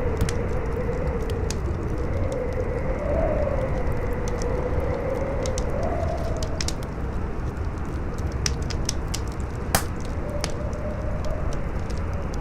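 Campfire crackling with scattered sharp pops, one louder pop near the end, over a steady rush of strong wind. The wind's howl wavers up and down in pitch, fading about two-thirds of the way through.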